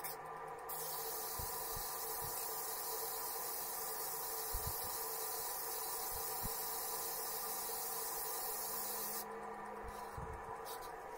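Air-fed detail spray gun hissing as it sprays a coat of adhesion promoter: one long, steady spray starting just under a second in and stopping about 9 seconds in, then two short blips of the trigger. A steady low hum runs underneath.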